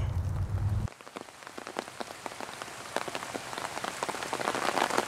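Rain falling, with many separate drops ticking close by. A low steady rumble underneath cuts off suddenly about a second in.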